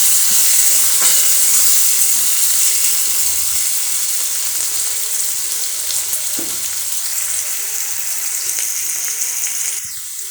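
Chopped onion and garam masala frying in hot refined oil in a pan: a steady sizzle that slowly grows quieter, with a few light clicks, dropping off near the end.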